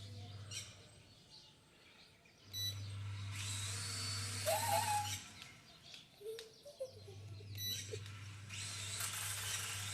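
Small toy drone's motors and propellers whirring in two spells of a few seconds, the first starting about two and a half seconds in, the second about seven seconds in.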